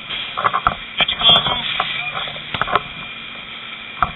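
Fire department two-way radio traffic: short, broken bursts of voice through a radio speaker, with clicks between them.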